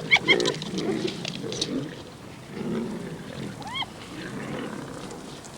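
Male lions growling and snarling as they squabble over a kill; the noise is rivalry between males. A few short, arching higher-pitched calls cut through, at the very start and again about four seconds in.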